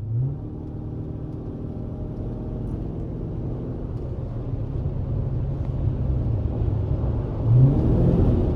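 Chrysler 300's Scat Pack swap V8 engine running as the car drives, its note rising slightly at the start and the sound building gradually, with a brief louder swell near the end.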